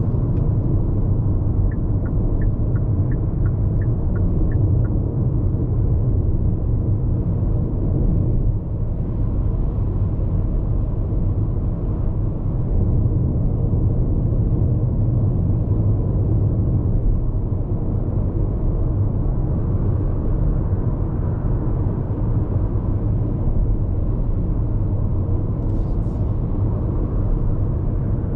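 Steady low tyre and road rumble with wind noise inside the cabin of a Hyundai IONIQ 5 AWD electric car cruising at highway speed. There is a few seconds of light, high ticking about two seconds in.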